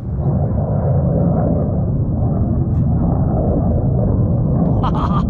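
Jet engine roar from an F-22 Raptor fighter flying overhead: a loud, steady, deep rumble that comes in suddenly at the start.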